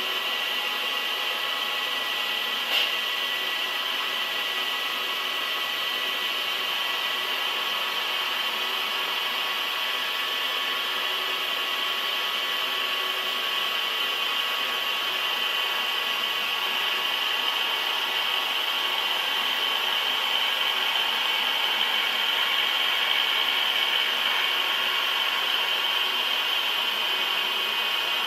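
Steady machining noise from a large metal-cutting machine tool, with thin steady whining tones over it. There is one sharp click about three seconds in.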